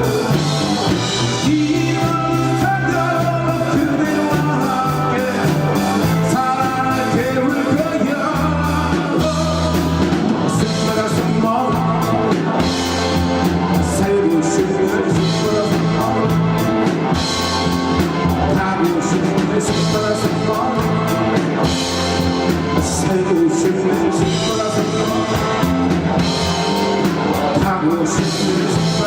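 Live rock band playing a song: electric bass, drums and guitar, with a vocalist singing over them.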